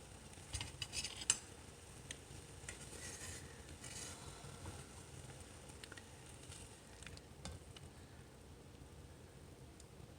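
Kitchen utensils and dishes clinking and scraping as cooked food is handled, with a quick cluster of sharp clicks about a second in, then softer scraping and a few scattered light ticks.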